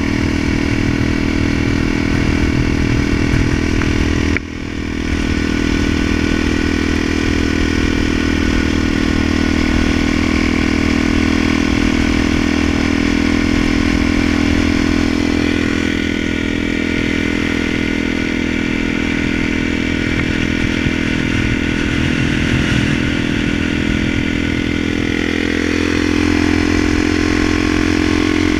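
Dirt bike engine running steadily at cruising speed under the rider. About four seconds in, the engine sound briefly drops away and then comes back.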